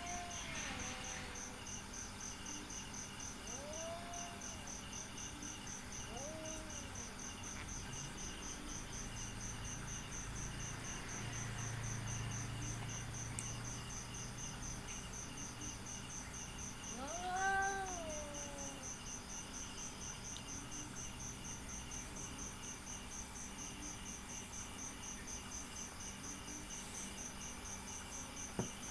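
Domestic cat meowing in a handful of separate drawn-out calls, each rising and falling in pitch, the loudest and longest about halfway through. Crickets chirp steadily underneath.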